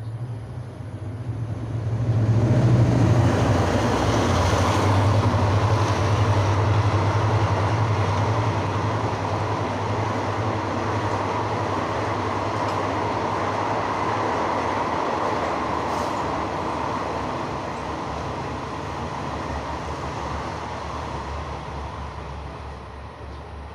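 Diesel-hauled passenger train passing through the station at speed: the locomotive's low engine hum rises about two seconds in, followed by a long steady rumble of the coaches' wheels on the rails that slowly fades near the end.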